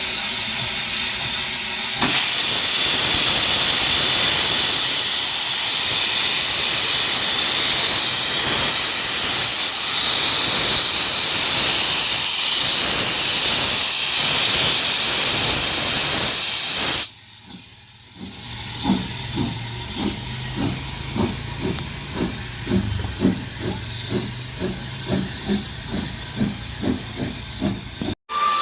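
Loud steady hiss of steam venting from a steam engine for about fifteen seconds, stopping abruptly. After a short quieter gap a slow, regular beat follows, just under two pulses a second over a low hum.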